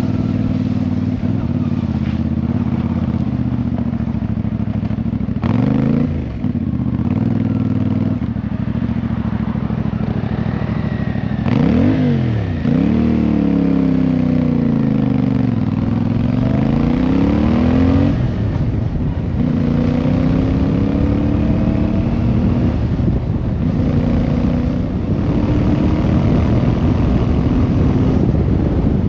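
Motorcycle engine running on the move, its revs falling and climbing again several times as it changes speed, most around 6 seconds in and between about 12 and 18 seconds in.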